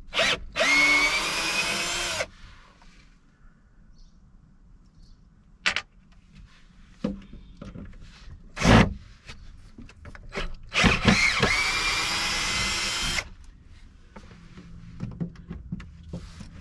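Power drill running in two bursts of about two seconds each, its pitch shifting as it works, with a couple of sharp knocks in between.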